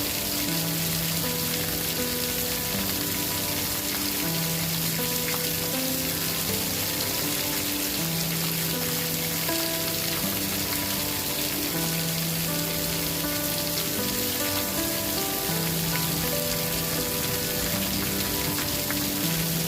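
Steady hiss of rain and campfire ambience with faint crackles, under soft held musical notes that change every second or two, a low note coming back every few seconds.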